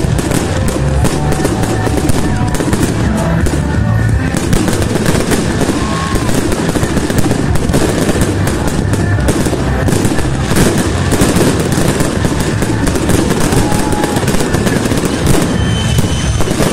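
Fireworks display: a rapid, unbroken string of bangs and crackles from shells bursting overhead, with music playing along.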